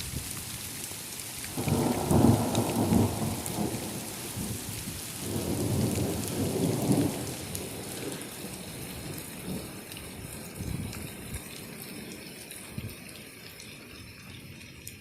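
Thunderstorm: rain and hail falling steadily, with two deep rumbles of thunder, one about two seconds in and another around six seconds in, each lasting a second or two. The downpour eases slightly toward the end.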